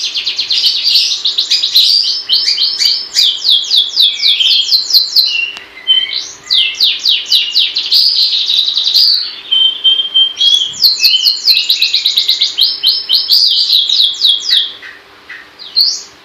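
Long-tailed shrike singing hard: rapid, loud runs of high, sharply falling notes, many a second, broken by short pauses about six and ten seconds in and thinning out near the end. A faint steady hum lies underneath.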